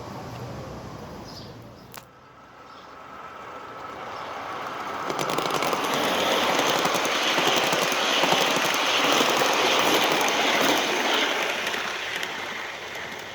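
Spur 1 garden-railway model of a MÁV M62 diesel locomotive and its train rolling past, a rapid clatter of wheels on the track that builds up over a few seconds, holds, and fades near the end. There is one sharp click about two seconds in.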